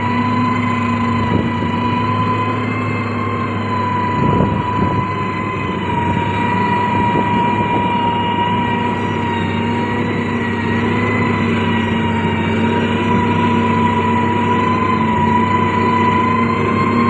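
Heavy road-construction machine running steadily, a low engine drone under a constant high whine, with a single knock about four seconds in.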